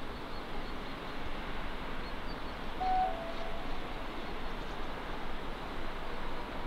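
Steady rushing noise of a train running, with a short two-note tone, stepping down in pitch, about three seconds in.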